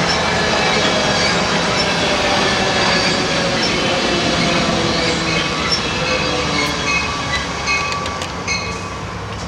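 Passenger train's bilevel coaches rolling past on the near track: a steady loud rumble of wheels on rail with thin high wheel squeals. It grows slightly quieter in the last couple of seconds, with a few sharp clicks about eight seconds in.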